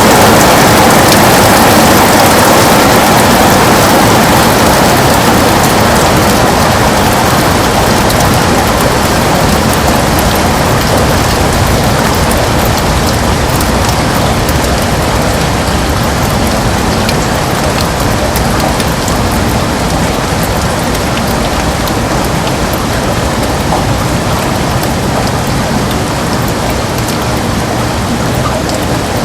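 Heavy rain falling steadily on a window: a dense, even hiss of drops that slowly grows a little quieter.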